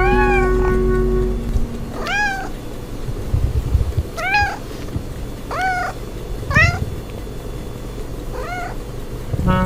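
Cat meowing repeatedly: about six short meows, each rising then falling in pitch, spaced a second or two apart. Background music plays under the first meow and stops about a second and a half in.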